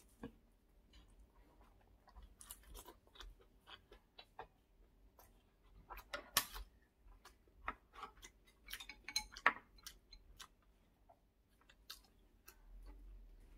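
A person chewing a mouthful of fried rice close to the microphone, with soft wet smacks and scattered clicks. There are louder clusters about six seconds in and again around nine seconds.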